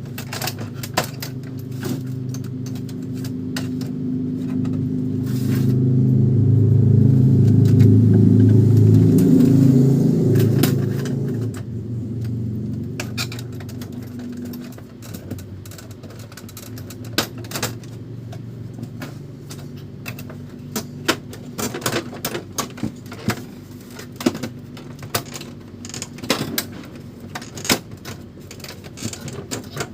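Epson L310 inkjet printer being worked on: a low mechanical whir swells to its loudest in the middle and fades out about halfway through, followed by irregular light clicks and taps of plastic parts being handled.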